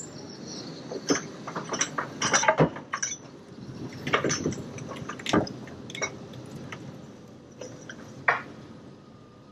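Irregular clattering of hard objects knocking and clanking together, busiest in the first six seconds, with one sharp knock near the end.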